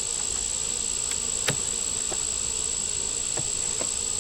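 Honeybees buzzing steadily around an open hive, under a constant high thin whine. A few light clicks of frames and wooden hive parts are heard, the sharpest about one and a half seconds in.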